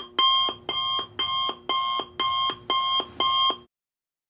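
An electronic alarm tone beeping in a steady repeating pattern of about two beeps a second, then cutting off suddenly near the end.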